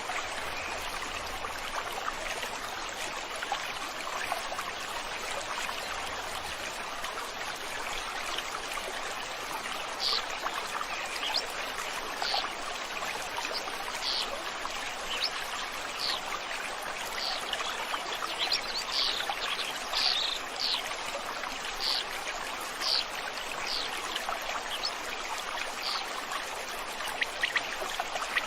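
A stream flowing steadily. From about ten seconds in, a bird calls over it again and again in short, high notes, roughly one a second.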